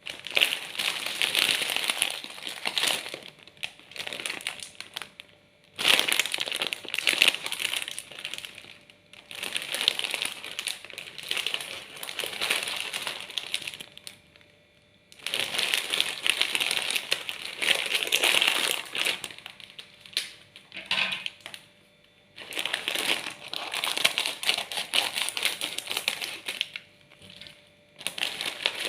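Plastic snack packaging crinkling as it is handled and opened, in several long spells of dense crackling with short pauses between them.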